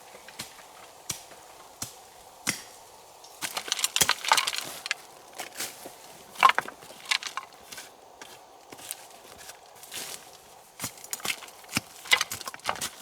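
Wood being chopped and cracked by hand: short sharp knocks about once a second, a stretch of rustling leafy branches about four seconds in, one loud strike about six and a half seconds in, and a quick run of strikes near the end.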